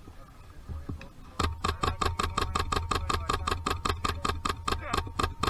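HPA airsoft rifle with a PolarStar Fusion engine firing a long rapid string of shots, about six sharp cracks a second. The string starts after about a second and a half.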